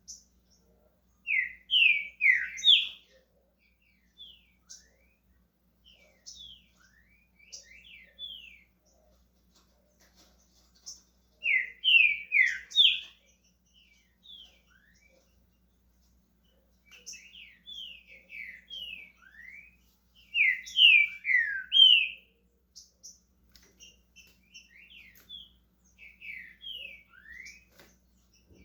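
Green-winged saltator (trinca-ferro) singing: three loud phrases of quick, downward-sliding whistled notes, roughly ten seconds apart, with softer short notes in between.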